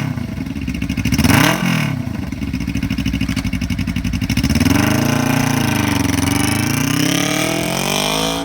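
Twin-cylinder engine of a 2013 Suzuki GW250 with an aftermarket exhaust, running and being revved. There is a quick blip about a second in, then a slower rev from about halfway that dips and climbs again near the end.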